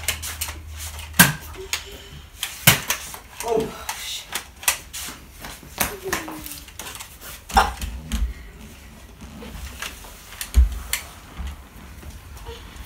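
Scattered sharp clicks and knocks, with a few low thumps, from Nerf foam-dart blasters firing and players scrambling across a tiled floor.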